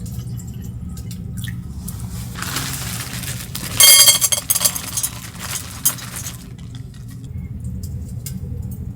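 Water poured into a dog's bowl, then the bowl clinks and rattles for a couple of seconds as it is set down, over a steady low hum.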